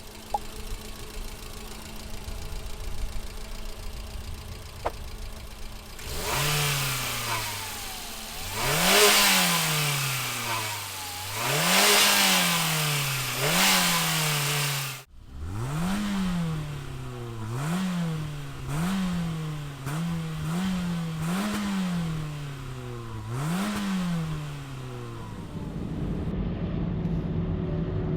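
Peugeot 306's 1.6-litre 8-valve petrol engine idling, then revved about ten times, each time climbing quickly and falling back to idle.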